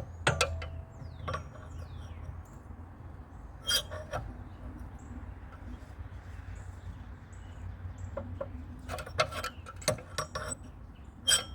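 Metal hand tools clinking and knocking in scattered separate strikes, with a cluster near the end, as a larger wrench is fitted onto a nut of a seized small engine.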